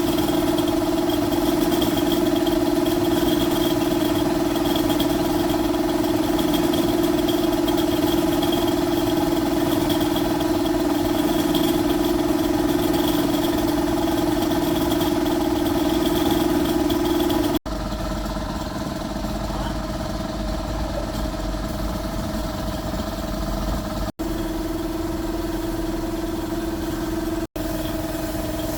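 Box truck's engine idling steadily, a strong even hum. After a sudden cut about two-thirds of the way in, it runs quieter with more low rumble, and there are two more brief cuts near the end.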